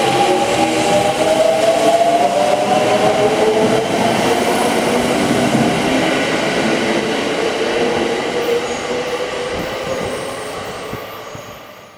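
Kintetsu electric train running through the station at close range: a loud rumble and hiss with whining tones that slide in pitch, fading away over the last couple of seconds.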